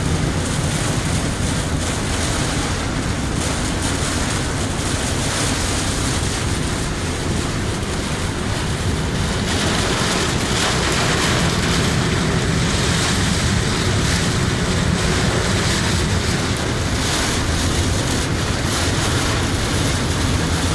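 Heavy rain falling on a car, heard from inside the cabin as a steady hiss. A low rumble from the car runs underneath it.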